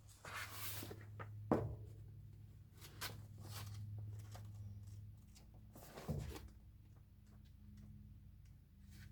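A few light knocks and clicks of things being handled, over a steady low hum.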